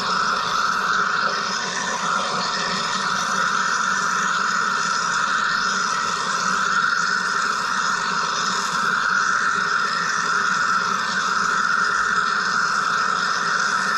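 Wire EDM machine running steadily: a constant hiss-like whir with several steady tones, no change throughout.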